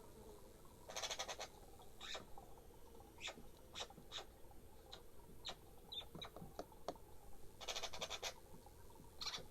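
Garden birds calling: two short rattling chatters, one about a second in and one near the end, with single short chirps in between.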